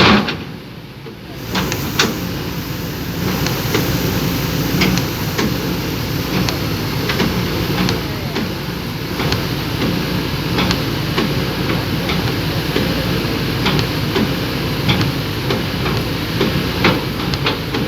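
Backhoe engine running steadily, with scattered sharp clanks and knocks over the rumble.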